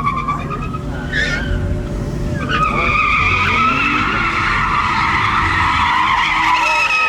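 Tyres squealing as a vehicle spins its wheels on pavement, with the engine running underneath. The squeal drops back about half a second in, then returns louder and steady from about two and a half seconds on.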